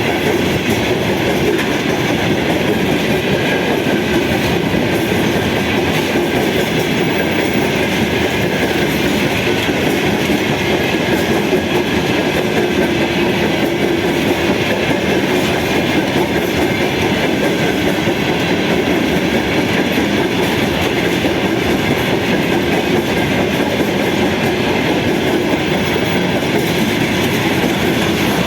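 A train rolling past at a steady speed, with continuous wheel-on-rail running noise that holds level throughout.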